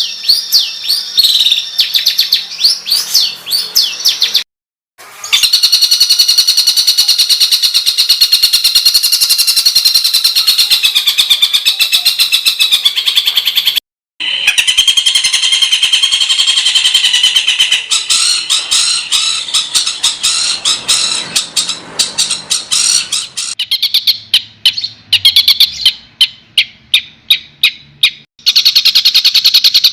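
Songbird singing loud, harsh, rapid-fire 'tembakan' phrases, the fast, rough notes used as masteran to train competition birds. It comes as several recordings joined together, with short silent breaks about five seconds in and around fourteen seconds; near the end the notes come as separate sharp calls with pauses between them.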